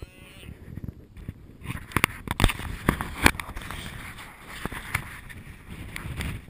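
Wind noise on the microphone with a series of sharp, irregular knocks and thumps, clustered about two to three and a half seconds in, with a few more near five seconds.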